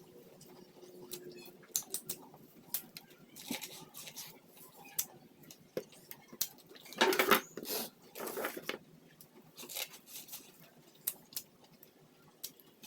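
Close-miked eating of boiled corn on the cob: irregular crisp clicks and wet smacks of biting and chewing the kernels, with a louder run of crunching about seven to nine seconds in.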